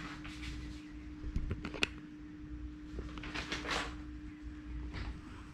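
Scattered sharp clicks and a brief rustling scrape of things being handled, over a steady low hum.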